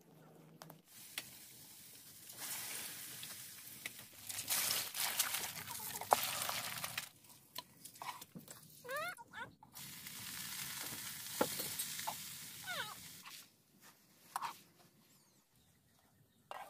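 Food sizzling in hot oil in a wok: eggs and water spinach frying, heard in two long stretches with a quieter gap between them, quieting near the end.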